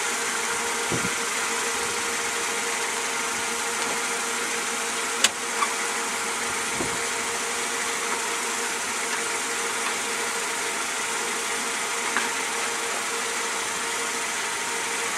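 Mercedes-Benz W210 engine idling steadily, doing its ten minutes at idle to work in a NanoVit anti-friction treatment just added to it. A single sharp click about five seconds in.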